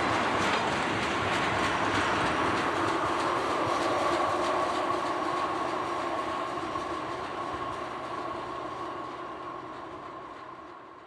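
Freight train cars rolling past, wheels clicking over the rails with a steady high tone running under the noise. The sound fades away gradually over the second half.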